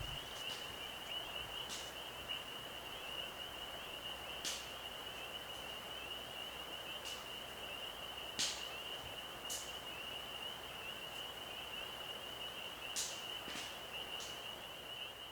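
Quiet evening outdoor ambience: a steady, thin, high-pitched tone that runs throughout over a faint hiss, with a few short, sharp clicks scattered through it.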